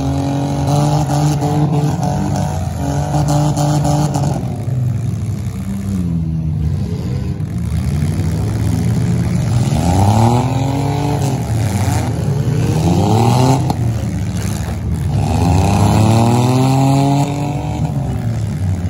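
Demolition derby car engines running and revving, the pitch climbing and falling again several times over a steady engine drone.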